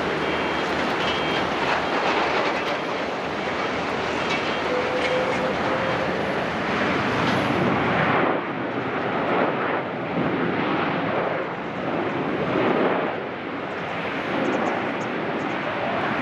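Jet airliner landing with its engines in reverse thrust: a loud, steady rushing noise whose highest hiss falls away about halfway through.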